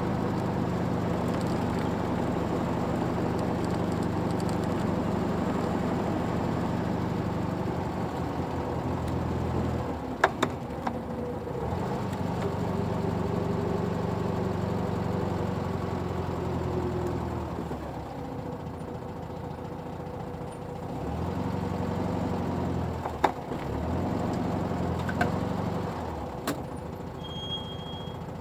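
Air-cooled Volkswagen Beetle flat-four engine idling steadily, its sound dropping away twice for a few seconds, with a couple of sharp clicks.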